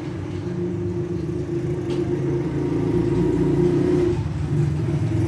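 An engine running steadily, a low pitched hum that grows a little louder about halfway through.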